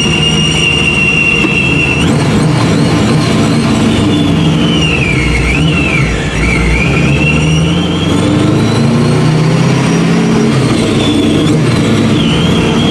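Supercharged 1969 Camaro engine pulling hard under acceleration, with a high supercharger whine that follows the revs. The whine climbs, drops sharply about six seconds in at a gear change, then climbs again.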